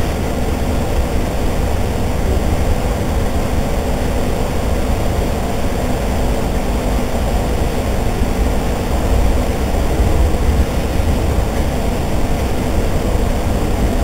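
Steady running noise inside a moving regional passenger train: a continuous low rumble of wheels and running gear on the track, with a faint steady hum over it.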